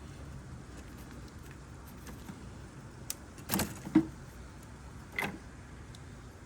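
A few short clicks and rattles of small parts being handled, the sharpest click about four seconds in, over a steady low hum.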